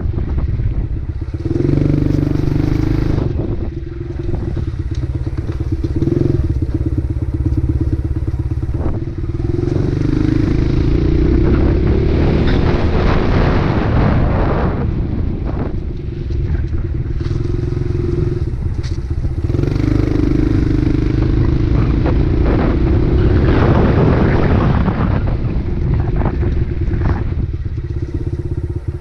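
Dirt bike engine running under way, its note holding steady for stretches and rising and dropping several times as the throttle is opened and closed.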